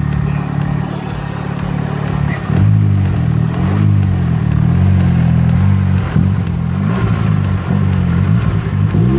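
Modified car's engine idling steadily, then revved over and over from a couple of seconds in, its pitch rising and falling with each blip of the throttle.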